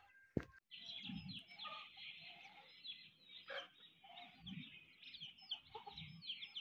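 Faint chirping of small birds: many short, quick chirps, scattered throughout.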